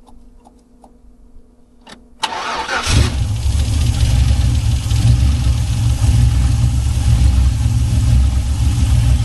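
A 1979 Regal's 6.0 V8 cranking briefly after a few light clicks, catching a little over two seconds in and settling into a steady idle with a strong low rumble, its first start after the rear main seal was replaced.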